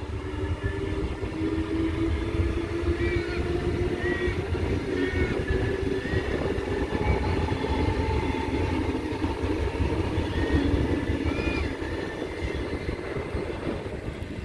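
Sydney Trains Tangara electric train passing, a steady rumble of wheels on the rails with a low hum that eases off near the end as the train clears.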